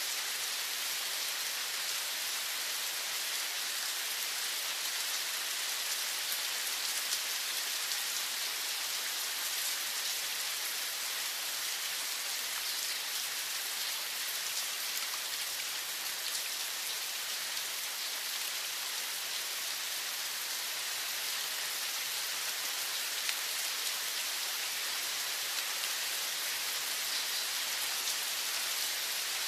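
Steady rain falling, a dense even patter of drops with no change in strength.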